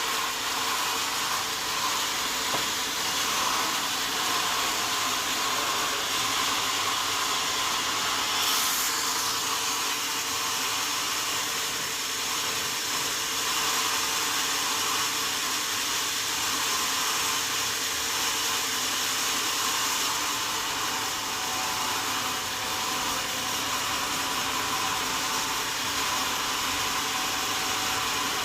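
Sawmill saw running steadily through wood, an even, hissing whir that holds at the same level throughout.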